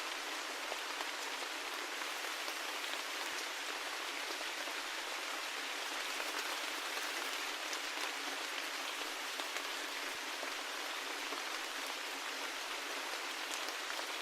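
Steady rain falling, an even hiss with scattered drop ticks, without pause or change.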